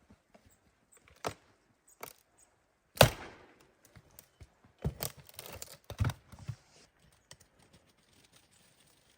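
Wood being chopped and broken: a few sharp knocks a second or more apart, the loudest about three seconds in, then a run of cracking and tearing between about five and six and a half seconds.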